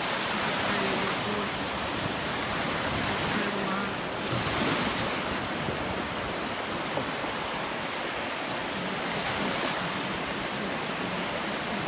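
Sea surf: slightly rough waves breaking and washing on the shore in a steady rush, swelling a little about four to five seconds in.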